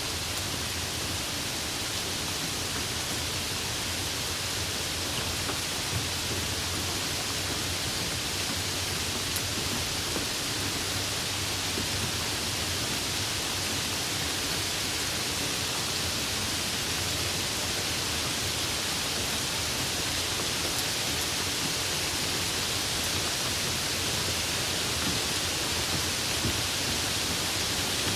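Tropical rain falling steadily: an even hiss that swells slightly toward the end.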